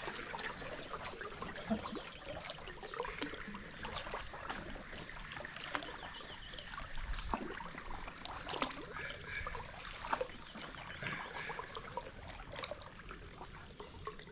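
Water trickling and lapping around a canoe on a lagoon, with many small irregular drips and splashes.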